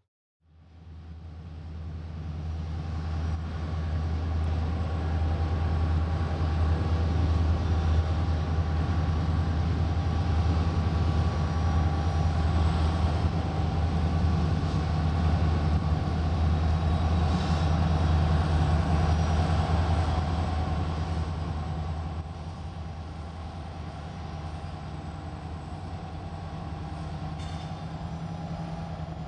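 Diesel locomotives hauling a freight train across a steel bridge: a steady low engine drone that swells up over the first few seconds and eases off about twenty seconds in as the units pass, leaving the quieter rumble of the train's cars.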